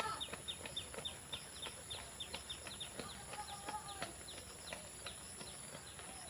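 Birds chirping: a quick run of short chirps that fall in pitch, several a second, with a longer, drawn-out call about three seconds in.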